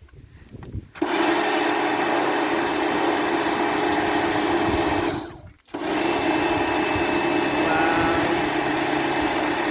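Electric pressure washer running with a steady motor drone and spray hiss. It starts about a second in, cuts out for a moment about halfway through as the trigger is let go, then starts again.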